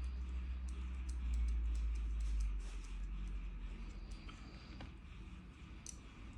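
A quick run of light clicks and taps from small parts being handled, thickest in the first couple of seconds with one more near the end, over a steady low rumble that fades off after about three seconds.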